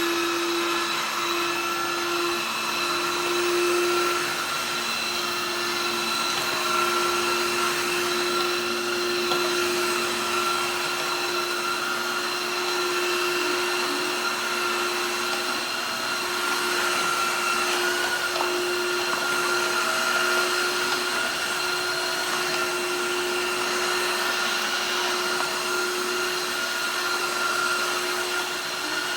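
Tineco iFLOOR 5 Breeze cordless wet-dry floor washer running: a steady motor whine over an even suction hiss.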